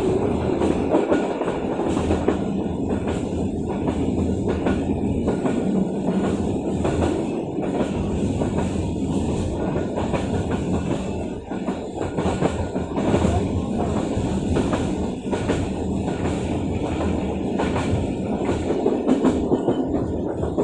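Pakistan Railways train running along the track: a steady rumble with the wheels clicking over rail joints, and music playing over it.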